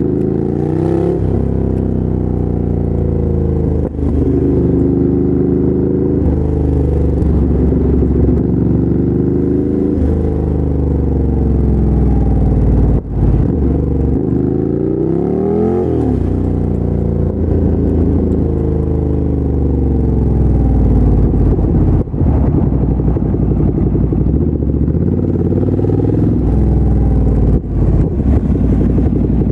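2017 Ducati Monster 797's air-cooled L-twin engine running through a LeoVince LV-10 exhaust while riding, its pitch rising and falling repeatedly as it revs up and eases off. There are a few brief drops in level along the way.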